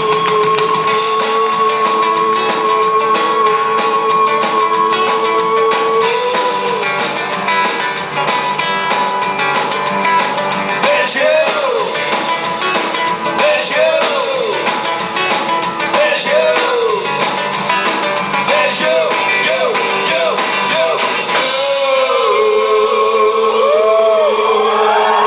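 Live rock band playing an instrumental stretch of a song, with electric guitar and drum kit, recorded from the audience. For the first six seconds a couple of notes are held steady; after that, short rising-and-falling vocal or guitar phrases come over the band.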